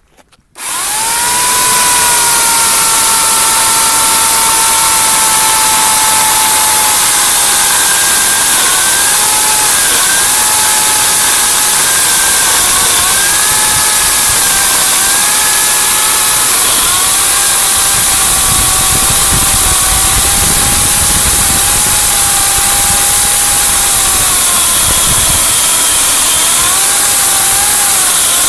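14-inch electric chainsaw (1 3/4 peak horsepower) switched on about half a second in and running continuously with a high motor whine. About a third of the way through, the pitch sags slightly and wavers as it comes under load cutting through a large log, with a lower rumble added for several seconds later on.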